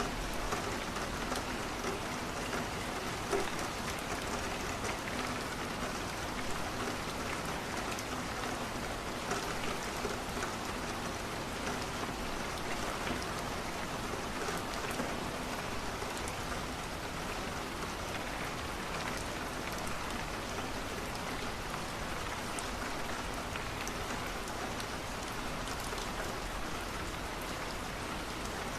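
Steady rain falling on a window, an even hiss with scattered small clicks.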